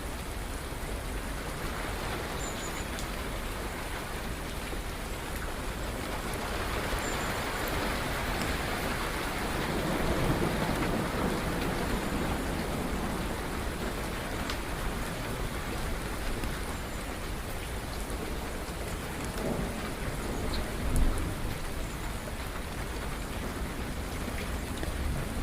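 Steady rain falling, with a low rumble of thunder swelling about ten seconds in. There is a brief louder crack or knock about three quarters of the way through.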